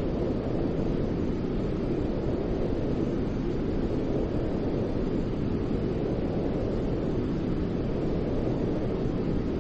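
Steady sleep noise for soothing a baby: an even rushing hiss weighted toward low pitches, like a deep rumble, with no rhythm or change.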